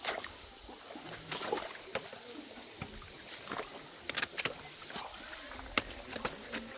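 Walking with trekking poles on a rocky, wet trail: irregular sharp clicks and knocks of footsteps and pole tips, the sharpest a little before the end.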